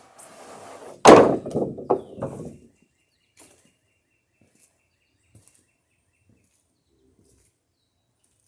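Wooden boards knocking together as lumber is shifted in a pile: one loud thunk about a second in, then a few smaller knocks.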